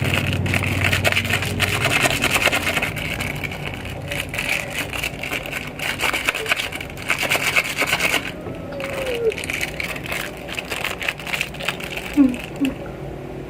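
Rapid, repeated scraping and rubbing strokes, dense for about the first eight seconds, then sparser and quieter.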